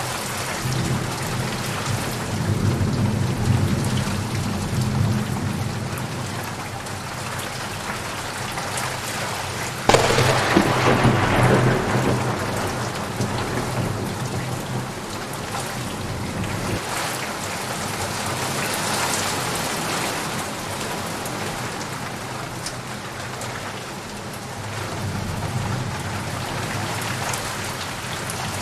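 Steady heavy rain with thunder. A low rolling rumble comes in the first few seconds, then a sharp thunderclap about ten seconds in rolls off over a couple of seconds, and a fainter rumble follows near the end.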